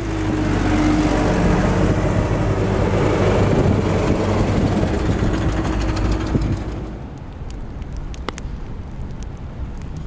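A motor vehicle's engine running close by, with a steady low hum, dying away about seven seconds in. It leaves a lower rumble with scattered sharp crackles.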